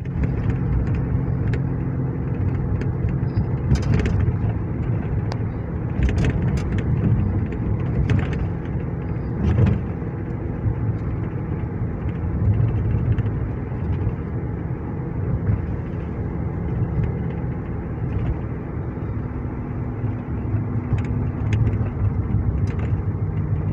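A police car driving, heard from inside the cabin: a steady low engine and road rumble, with a few brief knocks in the first ten seconds.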